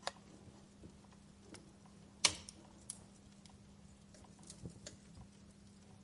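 Burning wood in a fireplace crackling with scattered pops, one sharp loud pop a little over two seconds in, over a faint steady low hum.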